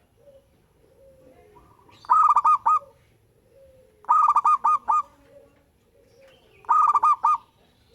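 Local perkutut (zebra dove) singing three phrases, each a quick run of clipped, ringing notes, about two seconds apart. Fainter, lower cooing runs between the phrases.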